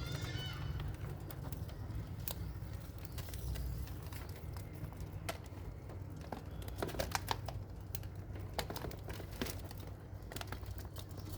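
Small pet parrots in an aviary: a short burst of chirps at the start, then scattered sharp clicks and taps, over a steady low hum.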